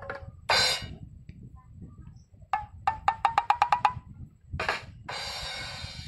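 Short comedy sound-effect clips played one after another from a phone app. First a brief burst, then a quick run of pitched knocks at about six a second, then another short burst and a longer hissy sound.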